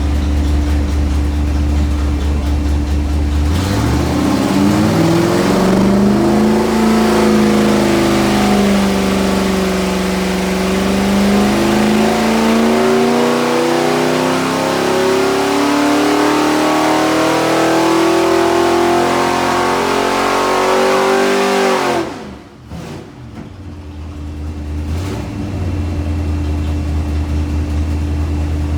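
Newly built 366 cubic-inch small-block Mopar V8 making a dyno pull: it idles, revs up sharply about four seconds in, and its pitch climbs steadily for about eighteen seconds under load. About 22 seconds in the throttle snaps shut, the sound drops away, and it settles back to idle. This is the first pull, with the piston rings not yet broken in.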